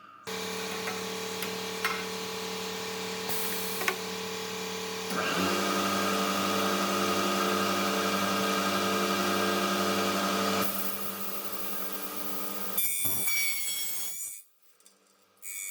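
Electric motor of an aluminium cutting saw starts and runs with a steady hum; about five seconds in it gets louder and harsher for about five seconds, then drops back. A brief noisier burst follows, and the machine stops near the end.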